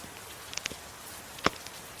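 Steady hiss of gentle rain with a crackling wood fire: a few small crackles, then one loud sharp pop about one and a half seconds in.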